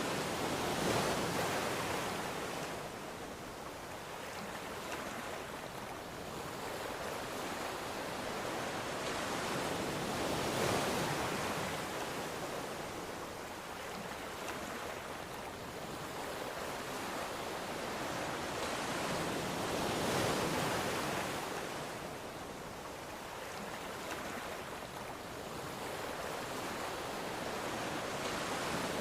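Ocean waves washing onto a shore in a steady hiss of surf, a wave breaking and swelling about every ten seconds, three times, then easing back between.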